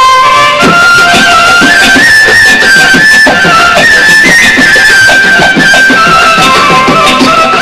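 Arabic orchestra playing an instrumental interlude of a Gulf song: a held, gliding melody line over a steady beat of rhythmic strokes.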